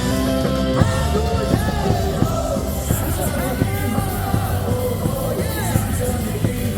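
A batter's cheer song playing loudly over stadium loudspeakers with a rock beat, the crowd in the cheering section singing and shouting along.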